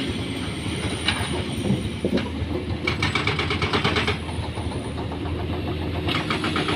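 A heavy vehicle engine running steadily, with patches of rattling about three seconds in and again near the end.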